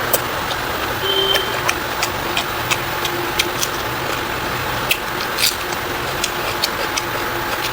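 Close-miked mouth sounds of eating: irregular sharp clicks and smacks, one or two a second, over a steady rushing background noise.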